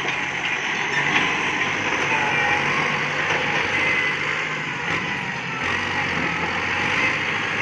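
Kubota MU5702 tractor's four-cylinder diesel engine running steadily through its original stock exhaust pipe. The exhaust is not loud.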